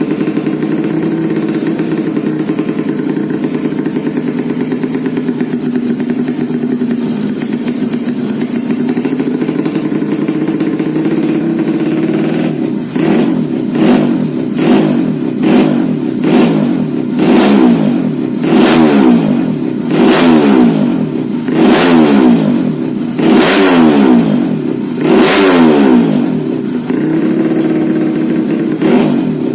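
Modified 125cc underbone motorcycle engine idling steadily, then blipped about ten times in quick succession, each rev falling back to idle, before settling to idle again near the end.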